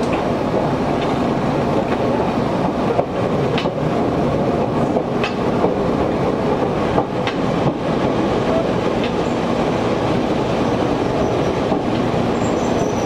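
Interior running noise of an Izuhakone Railway 1300 series electric train under way: a steady rumble of wheels on rail, with the air conditioning running hard, and a few irregular sharp clanks. A faint high wheel squeal starts near the end.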